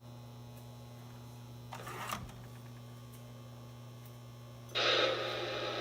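Steady electrical hum from a Lionel model train setup, with a brief scrape about two seconds in. Near the end, a loud, even rushing noise starts suddenly.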